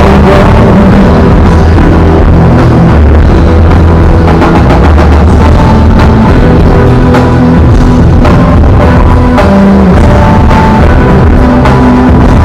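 Live rock band playing at full volume, recorded from the audience: a drum kit beating over steady low bass notes in a passage without singing.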